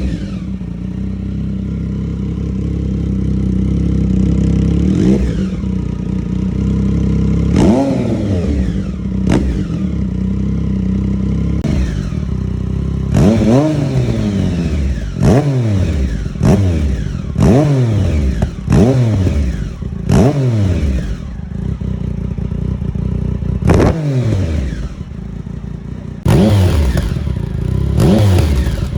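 Triumph motorcycle with an aftermarket exhaust running steadily, then blipped over and over, each rev climbing quickly and dropping back to idle, with a fast string of blips about halfway through and a few more near the end.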